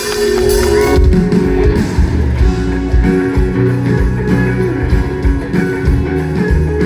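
Live band starting a song: strummed guitars over bass and a drum beat, kicking in suddenly and at full volume.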